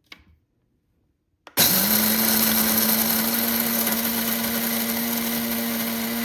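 SHARDOR electric blade coffee grinder starting on its timed coarse setting: a small click, then about a second and a half in the motor spins up with a brief rise in pitch and runs steadily with a held hum, chopping coffee beans to a coarse grind.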